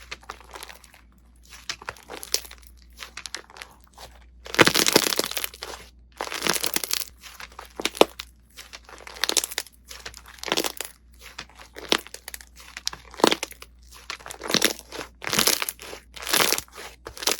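Slime being squeezed and pressed, crackling and crunching in a series of presses of varying length with short pauses between.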